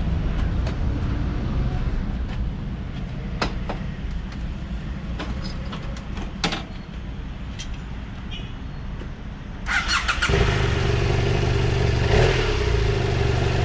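A low background rumble with scattered clicks, then near the end the BMW F800GS's parallel-twin engine is cranked by the starter, catches within about half a second and settles into a steady idle. It starts without any knocking, just after its timing chain, tensioner and slider were replaced.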